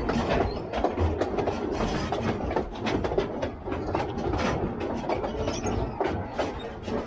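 Narrow-gauge train running along the track: a steady rumble with irregular clicks and rattles of wheels and carriage.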